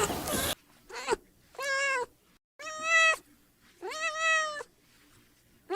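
Kitten meowing repeatedly: a short meow about a second in, then three longer meows of about half a second each, each rising and then falling in pitch, with short pauses between.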